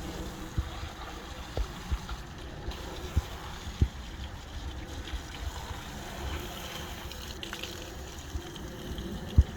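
Water from a hose spraying and splashing steadily over a mower, with a few short low thumps, the loudest near the end.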